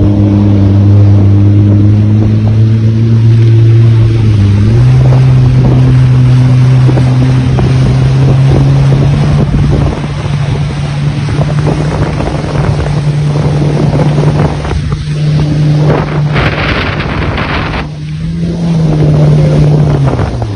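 Jet ski engine running at speed, a steady hum that steps up in pitch about four and a half seconds in as the throttle opens, with wind and water noise throughout. A loud rush of noise comes about sixteen seconds in, and the engine rises briefly and then drops off at the very end.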